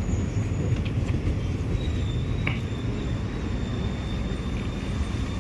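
Electric commuter train rolling slowly alongside the platform as it comes in to stop: a steady low rumble of wheels on rail with a thin high whine running through it.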